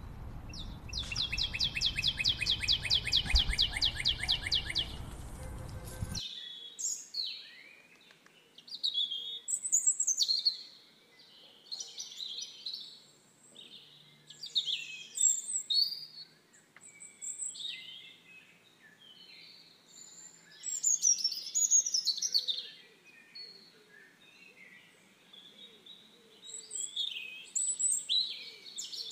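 Songbirds singing. For the first six seconds a rapid, even trill runs over a low rumble, then cuts off abruptly. After that come scattered varied chirps and short song phrases.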